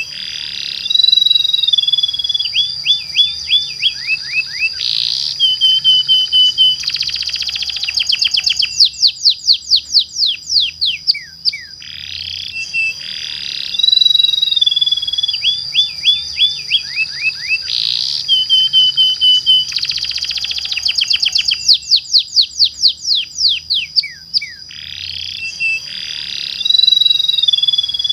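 Domestic canary singing in long, rapid trilled rolls and whistled notes over a high steady held note. It is a looped lure-song recording: the same run of phrases comes round again about halfway through.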